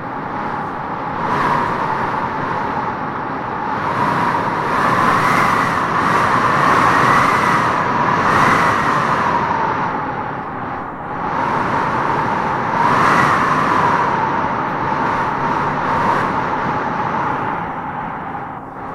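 Howling wind gusting through trees: a steady rush with a wavering, whistle-like howl that rises and falls, swelling most strongly about five to nine seconds in and again around thirteen seconds.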